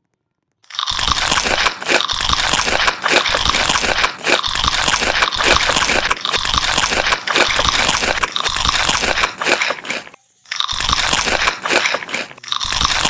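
Crunchy food being bitten and chewed loudly, close to the microphone in mukbang style: a dense, steady crackle and crunch that starts abruptly about a second in, with a brief pause near the end.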